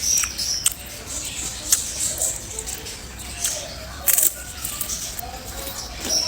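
Someone eating crispy fried banana cake: irregular sharp crunches and chewing, loudest about four seconds in.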